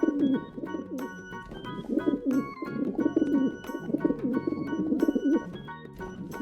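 Pigeon cooing in repeated low, throaty phrases over background music.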